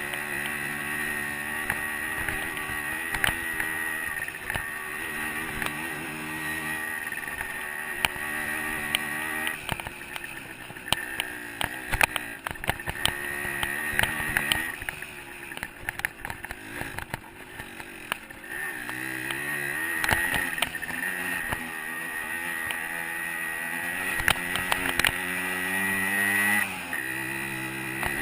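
125 cc two-stroke dirt bike engine running under changing throttle on a trail ride, its pitch stepping up and down several times with a quieter, off-throttle stretch in the middle. Frequent sharp clicks and knocks come in over the engine.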